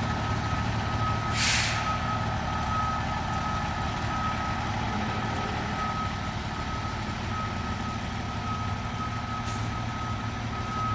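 A fire engine's backup alarm beeps steadily over the low running of its engine as it reverses. A short air-brake hiss comes about a second and a half in, and a fainter one near the end.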